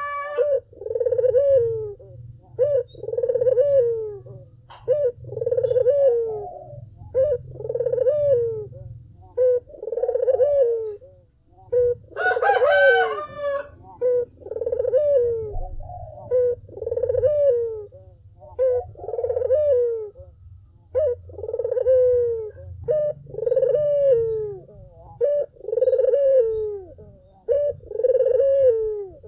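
Barbary doves (puter) cooing, with short coos repeating about once a second. A brighter, louder call comes about twelve seconds in, over a low steady hum.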